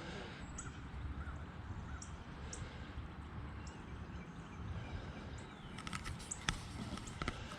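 Outdoor ambience: birds calling in short chirps over a low, steady rumble, with a few sharp clicks near the end.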